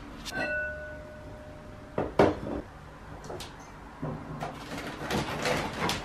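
Kitchen cupboard and crockery being handled: a piece of crockery clinks and rings on for over a second, then two sharp knocks, the loudest sounds, come about two seconds in, followed by lighter clatter of dishes and the cupboard near the end.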